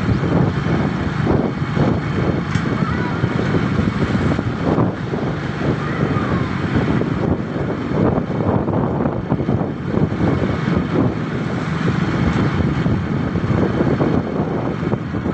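Motorcycle riding along, its engine running under heavy wind buffeting on the microphone.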